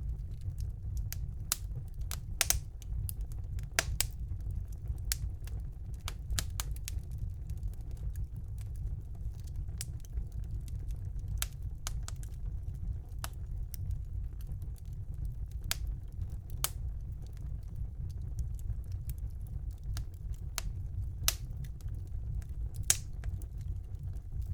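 Wood fire burning in a fireplace: a steady low rumble of the flames with irregular, sharp crackles and pops from the burning logs.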